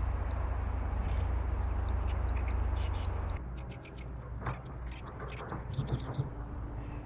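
Zitting cisticola and Oriental reed warbler singing back and forth, with many short, high notes repeated in quick runs. A low rumble underlies the first three and a half seconds, then cuts off.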